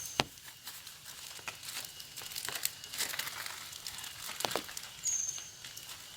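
Rustling and crinkling, like material being handled, with scattered sharp clicks and taps, and a brief high whistle about five seconds in.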